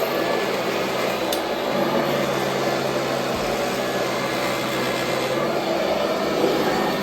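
Royal Model 2008 upright vacuum cleaner running steadily: a constant low motor hum under an even rush of air.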